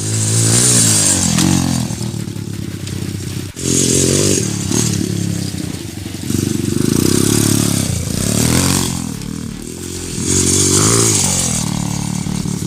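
125cc dirt bike engine revving up and falling back again and again as it is ridden, about half a dozen throttle swells, with an abrupt cut about three and a half seconds in.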